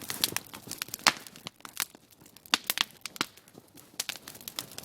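Irregular sharp crackles and crunches, a few louder cracks among them, with no steady rhythm.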